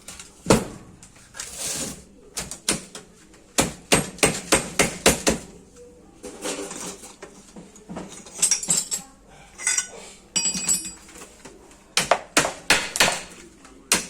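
Hammer striking metal: irregular runs of sharp blows, a few of them leaving a brief metallic ring.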